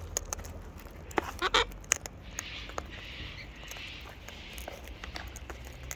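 Wild birds feeding close by: scattered light clicks and taps, a short bird call about a second and a half in, and a soft raspy sound through the middle.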